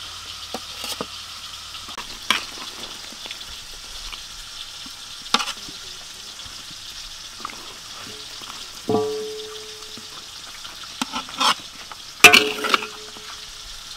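Chicken legs sizzling in oil in a wok, with a steady frying hiss. Metal tongs click against the wok and tray several times, and the metal rings out with a clang about nine seconds in.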